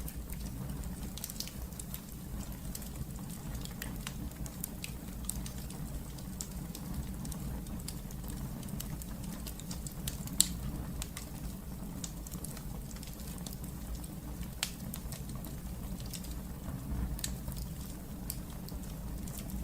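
Wood fire burning in a fireplace: a steady low rumble of the flames with scattered small crackles and pops, one sharper pop about halfway through.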